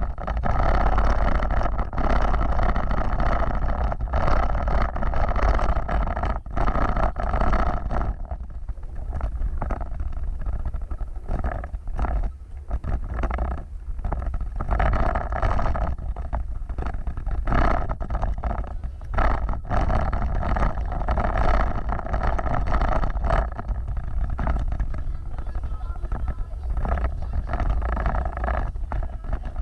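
Vehicle driving over rough off-road ground: a continuous heavy low rumble with uneven, jolting noise that rises and falls throughout.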